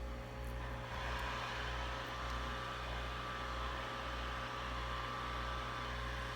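Steady blowing hiss from a small electric blower on the repair bench, which comes on about a second in, over a low electrical hum.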